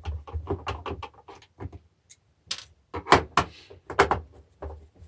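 Irregular clicks and knocks of a screwdriver and a plastic car battery charger case being handled on a workbench while the screws in its back are undone, with a few louder clunks about three to four seconds in.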